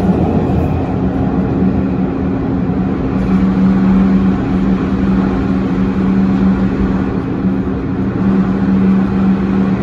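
MTR Tung Chung line A-train (Adtranz-CAF electric multiple unit) running at speed, heard from inside the car: steady rumble of wheels on rail with a steady low hum.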